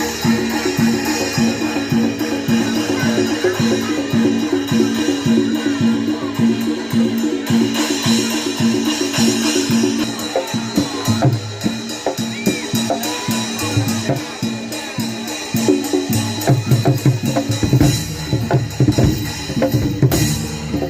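Javanese gamelan accompaniment for a Barongan Blora dance: kendang drums beat a steady, driving rhythm under ringing metallophones, and the low drum strokes grow heavier near the end.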